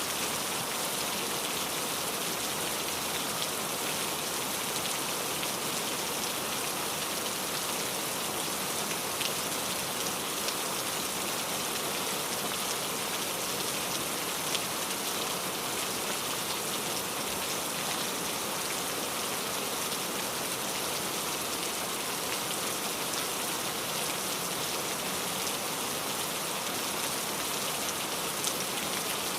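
Steady rain falling and pattering on a surface, an even hiss with a few separate drop ticks now and then.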